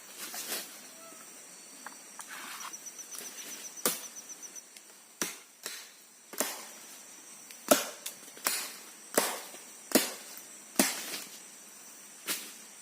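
Firewood being chopped by hand with a blade: about ten sharp, separate chops, coming roughly once a second through the middle, over a faint steady high-pitched drone.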